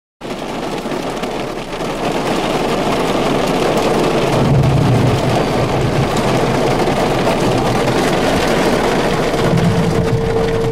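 Heavy wind-driven rain hissing on the vehicle, loud and steady, cutting in suddenly at the start. Low rumbles swell about four seconds in and again near the end. A faint steady tone from the tornado warning sirens comes in about halfway and returns near the end.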